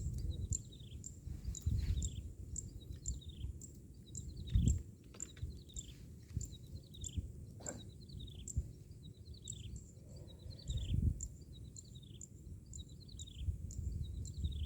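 A bird calling over and over in short, high notes that slide downward, about two a second, over low wind rumble on the microphone with a few dull bumps.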